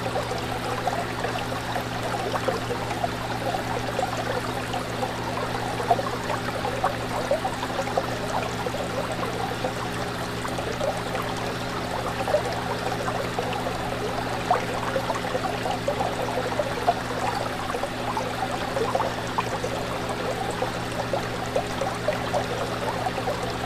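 Fish tank water trickling and bubbling steadily, with a constant low hum underneath.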